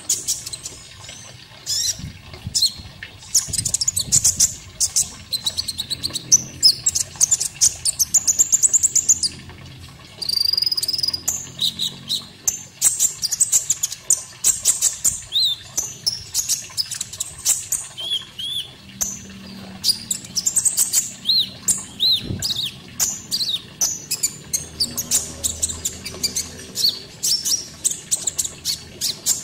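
Konin songbird singing a busy stream of rapid high chirps, short trills and whistled notes, over a faint background sound of water.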